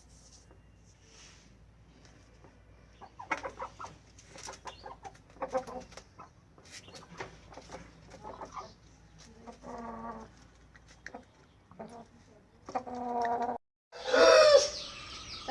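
Aseel chickens clucking: a series of short, irregular calls, with a louder call that slides in pitch near the end.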